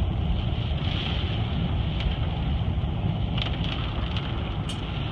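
A car driving, heard from inside: a steady low rumble of engine and tyres, with a few short light ticks about three and a half seconds in and again near the end.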